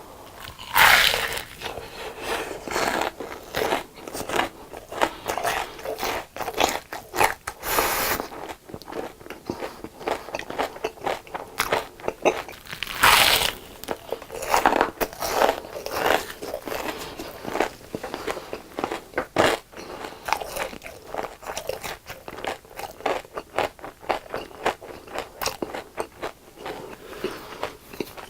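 Close-miked biting and chewing of crisp fried food: a run of sharp crunches every fraction of a second, with bigger bites about a second in and again about 13 seconds in.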